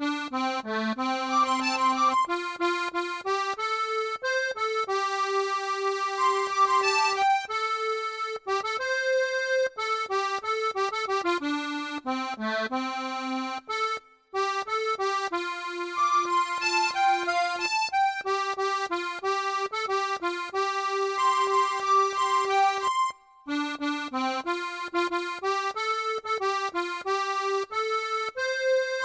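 Accordion playing a slow enka melody line alone, with short breaks between phrases.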